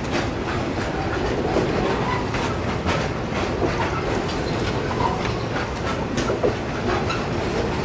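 Coal train's loaded hopper wagons rolling past: a steady rumble of wheels on rail with frequent sharp clicks as the wheels cross rail joints.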